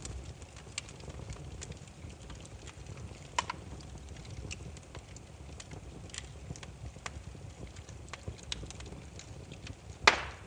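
Wood fire crackling: scattered sharp pops and snaps over a low steady rumble, with one loud pop near the end.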